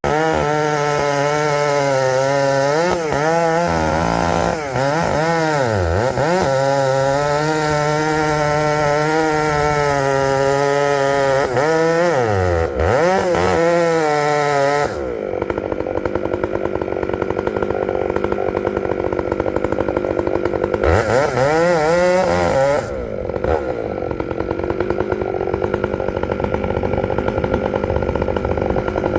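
Chainsaw running at high revs, its pitch dropping and climbing back several times as the throttle is eased and squeezed. About halfway through, the sound turns rougher and duller.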